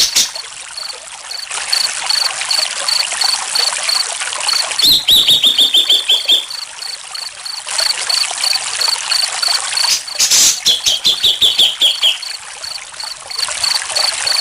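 Steady trickling water with a cricket chirping about three times a second. A songbird calls twice, a run of quick notes falling in pitch, about five seconds in and again near eleven seconds.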